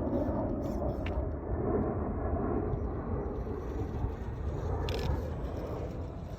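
Axial SCX10 III RC crawler driving over dirt, its small electric drivetrain and tyres running under a steady low outdoor rumble, with a sharp click about a second in and another short click near five seconds.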